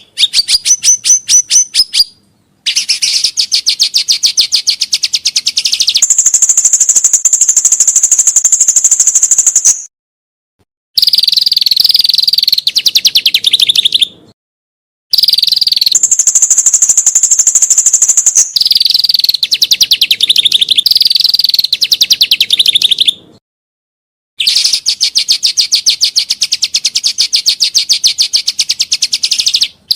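A songbird singing long, rapid trills of fast repeated notes, in bursts several seconds long cut off by sudden short silences. Some phrases jump to a higher, thinner pitch and are held there for a few seconds.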